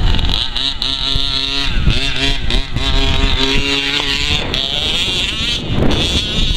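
Small petrol engine of an FG Monster Truck 4WD radio-controlled model, revving up and down in quick blips and then holding a steady pitch; a little past halfway a rushing noise takes over.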